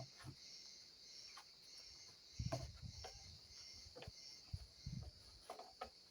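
Faint scrubbing and handling knocks as the dirty plastic RC airplane fuselage is cleaned, with a cluster of louder thumps about halfway through. Behind them runs a steady high-pitched chirp pulsing at an even rate.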